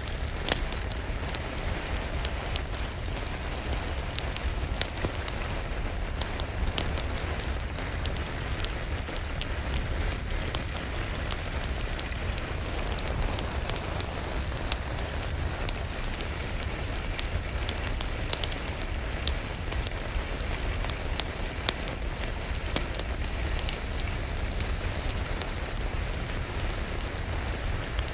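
Steady rain falling, mixed with the irregular pops and crackles of a wood fire burning in a fireplace.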